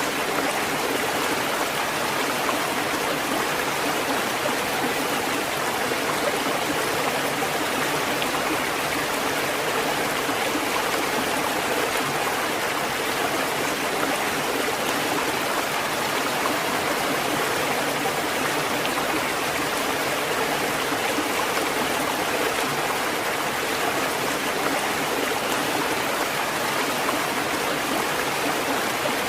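Steady, even rush of water: a continuous hiss with no rise and fall of separate waves.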